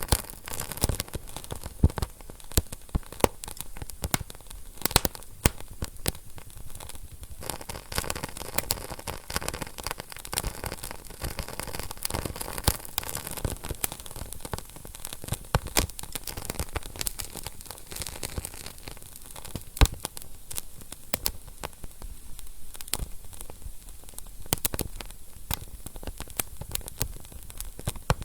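Wood fire crackling and popping in a fireplace: a steady hiss of burning with frequent irregular snaps, one sharper pop about two-thirds of the way through.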